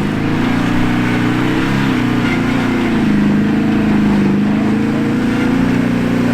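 Toyota Tundra's engine pulling under load while towing a disabled FJ Cruiser, running steadily with its pitch wavering a little.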